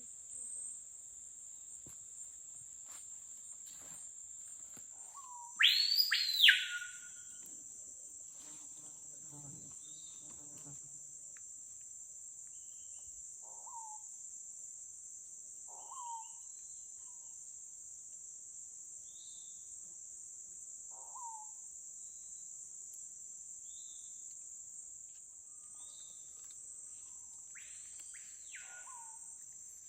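Forest insects keep up a steady high shrill drone while a bird gives a loud whistle that sweeps up, holds a high note and drops, about six seconds in, and again more faintly near the end, with short upward-sliding notes in between: the call of the capitão-do-mato (screaming piha). Other small birds chirp faintly.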